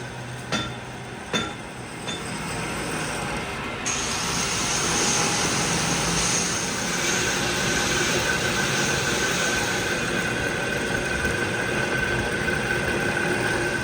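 Two ringing metal clinks, then workshop metalworking machinery runs steadily with a bright high hiss, and a steady whine joins partway through.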